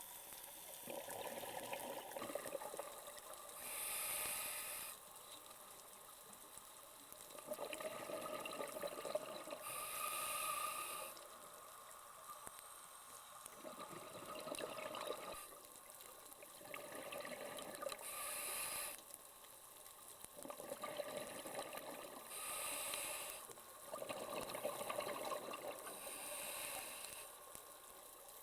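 Scuba diver breathing through a regulator underwater: a hissing inhale every few seconds, each followed by a burst of exhaled bubbles.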